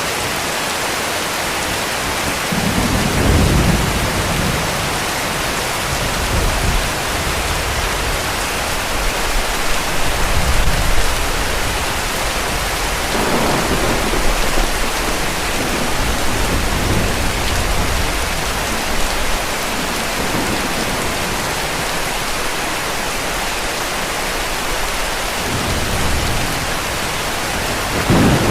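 Heavy rain falling in a steady hiss, with several low rolls of distant thunder rumbling under it.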